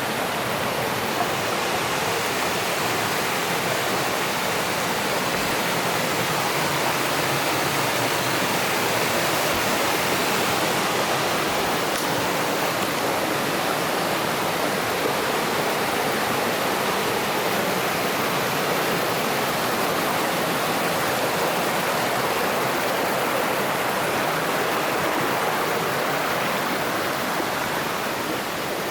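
Steady rushing of water in a rocky mountain stream, the loud, even roar of water pouring over and around rocks.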